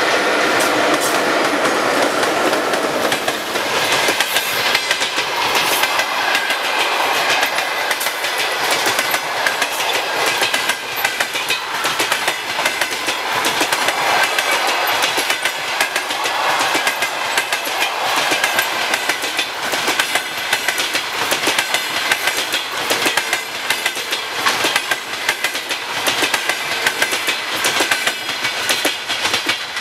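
A train passing close by at speed. Its wheels clatter over the rail joints in a dense, continuous run of clicks, and the sound stays loud and steady throughout.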